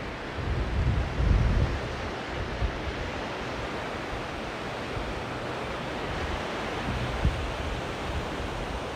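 Sea surf washing on a sandy beach as a steady rush, with wind buffeting the microphone in low gusts, strongest in the first couple of seconds.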